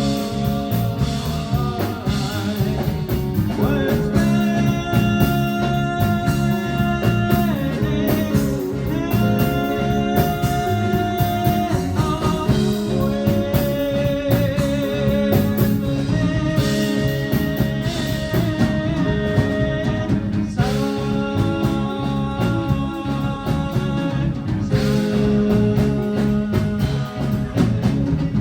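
Live rock band playing, with long held melody notes, some wavering, over steady drums and bass.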